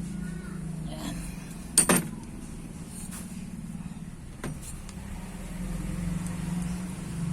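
Hand tools knocking on metal while the starter's screws are being removed: one sharp, loud clack about two seconds in and a lighter click a few seconds later, over a steady low hum.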